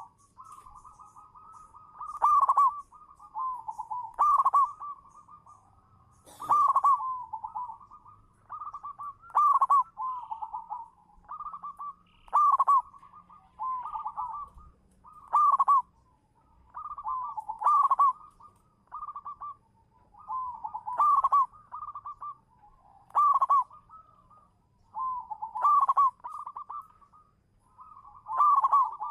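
Zebra dove cooing: a staccato, bubbling phrase of coo notes repeated about every two to three seconds, with faint high chirps in the background.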